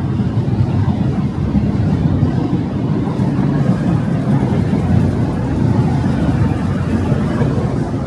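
An engine running close by: a loud, steady low rumble with no clear change.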